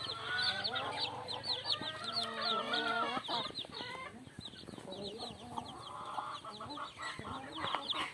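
Chickens clucking, with chicks peeping in quick, high, falling chirps throughout.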